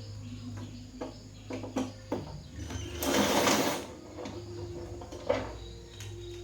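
Small clicks and knocks of parts and tools being handled during a TV repair, with a short burst of hiss about three seconds in, over a steady low hum.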